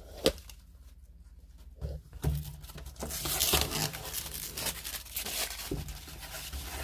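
A sticker being peeled off a new fridge freezer, with tearing and crinkling that is busiest in the middle. A sharp click comes just after the start.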